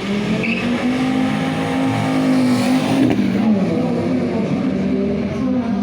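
Five-cylinder car engine revving, its pitch climbing, dropping about three seconds in, then rising and holding again.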